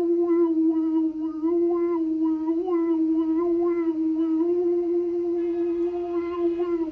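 A voice humming or toning one long, nearly level note, its tone colour shifting slightly as it is held.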